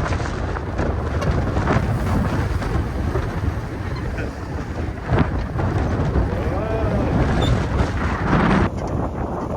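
Strong wind gusting hard over the microphone: a dense, steady rumble that swells with each gust and never lets up.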